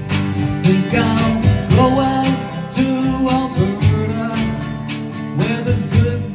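Acoustic guitar strumming a slow country-folk tune, with a held, sliding melody line over the chords.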